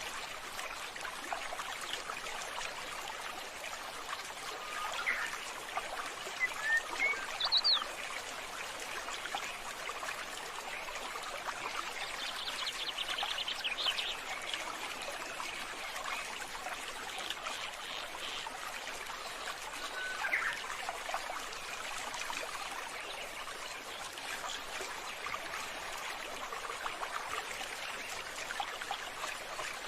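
Steady trickle of running water, with a few short bird chirps over it: a couple about five to eight seconds in, a quick run of chirps around the middle, and one more about two-thirds through.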